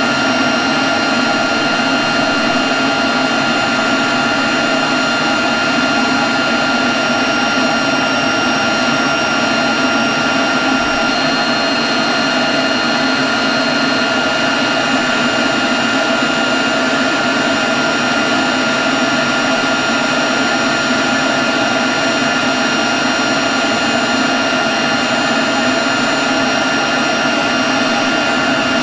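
Leaf blower running steadily at a constant speed: a loud rush of air with a steady high-pitched whine over it.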